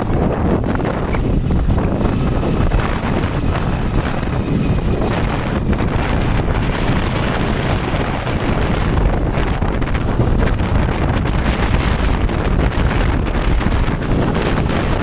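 Heavy wind buffeting the microphone: a loud, steady low rumble with no pauses.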